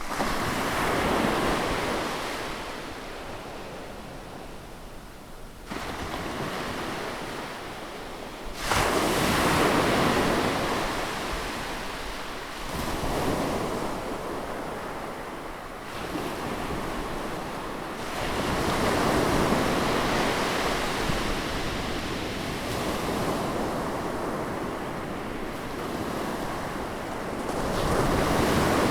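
Ocean waves breaking and washing on a shore, surging and ebbing in loud swells every few seconds.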